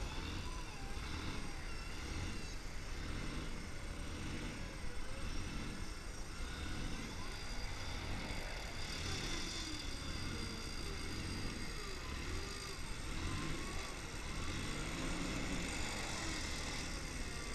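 A motor vehicle's engine running under a steady low rumble, its pitch rising and falling as it is revved.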